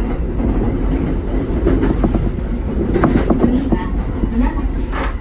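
Electric commuter train running at speed, heard from inside the leading car: a steady low rumble with irregular sharp clacks of the wheels over rail joints and pointwork as the train changes tracks.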